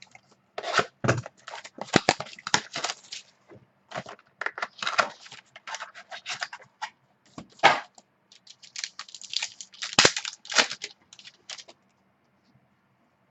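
Trading-card pack being torn open and its cards handled: irregular crackling, tearing and clicking of the packaging in quick bursts with short pauses, stopping near the end.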